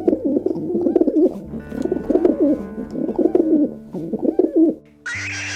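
Dove cooing in repeated low, warbling phrases over a steady hum. About five seconds in it gives way to a different, hissing sound.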